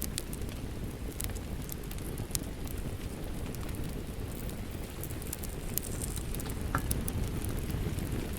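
Wood fire crackling with irregular sharp pops over a steady low rush of rain.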